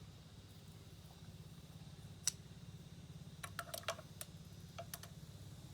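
Small clicks and ticks from the bike's belt drive being handled and worked by hand: one sharp click about two seconds in, a quick run of clicks about a second later, and a couple more near the end, over a faint steady low hum.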